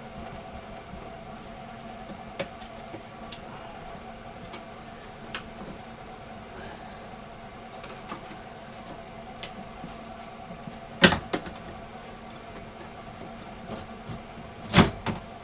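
Light scattered taps and clicks, then two sharp knocks, one about eleven seconds in and one near the end. This is a tacked-in repair section being persuaded out of a Land Rover 110 door. A steady hum runs underneath.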